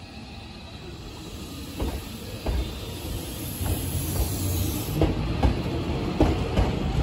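Hankyu 7000 series electric train pulling out of the station and gathering speed past the platform: a low rumble that grows steadily louder, with wheels clacking over rail joints from about two seconds in. A high hiss sounds for a few seconds in the middle.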